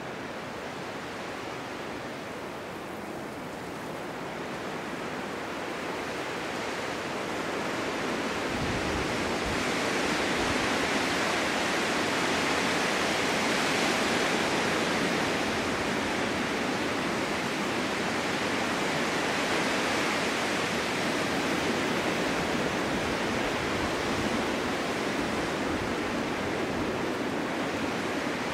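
Winter snowstorm wind blowing steadily as an even rush. It builds into a stronger gust over several seconds from a few seconds in, then eases slightly.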